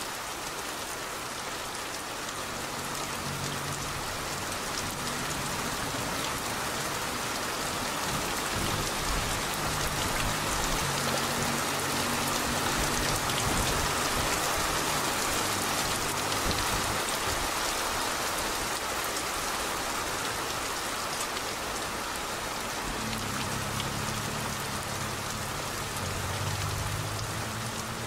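Steady rain falling and splashing on a street, with a low rumble swelling underneath a few times.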